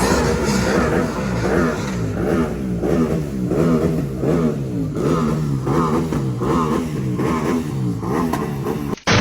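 A car engine being revved over and over, its pitch rising and falling about twice a second. Near the end it cuts off sharply and a loud burst follows.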